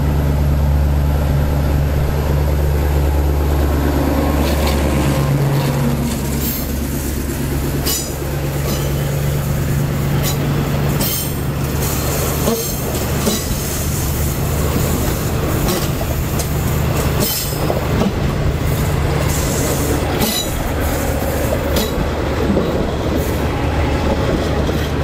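SRT Alsthom diesel-electric locomotive passing close, its diesel engine running loud with a low steady drone that eases off about five seconds in. The passenger coaches then roll by, their wheels clicking and clattering irregularly on the rails.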